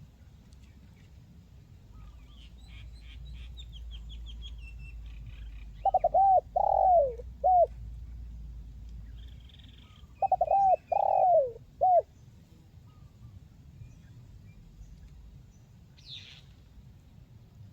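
Spotted dove (tekukur) cooing: two phrases about four seconds apart, each a few quick falling coos with a short final note. Faint high chirps come before the first phrase.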